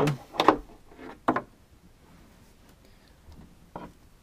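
Handling noise as a sander is lifted out of its plastic carrying case: a few light knocks and clicks in the first second and a half, then a quiet stretch and one more light knock near the end.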